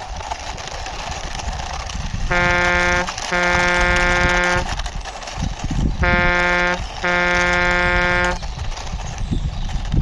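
Horn honking in pairs, a short honk followed by a longer one, twice, over a steady rushing noise.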